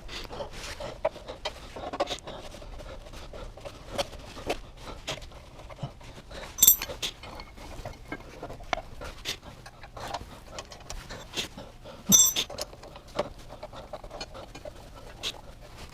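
Irregular clicks and knocks of hand tools on metal during work on a Honda Super Cub's rear wheel, with two sharp ringing metallic clinks, one near the middle and one later on.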